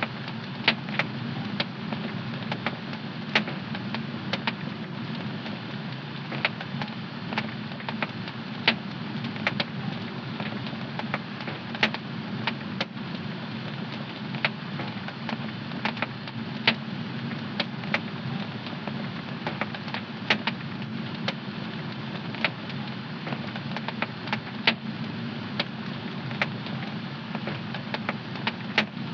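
Wood fire in a home fireplace crackling, with irregular sharp pops several times a second over a steady low rumble of the burning fire.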